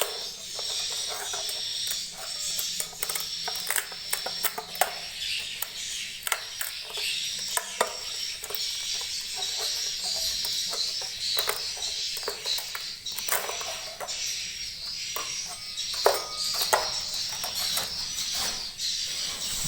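Swiftlets twittering in a swiftlet house: a dense, steady, high-pitched chirping, broken into a repeating pattern, with scattered sharp clicks and knocks.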